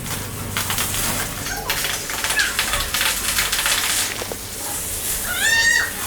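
Polythene sheet crinkling and rustling as it is wrapped by hand around a motorcycle's spark plug area. Near the end a short high-pitched call, rising then falling, cuts through.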